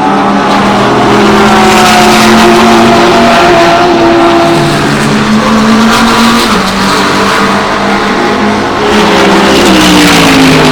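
Several GT race cars passing at speed, their engines running hard. The engine notes step in pitch with gear changes a few times, and one falls away near the end.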